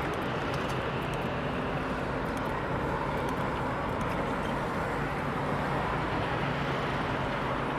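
City street traffic: a steady hum of vehicles running, with a low engine drone underneath.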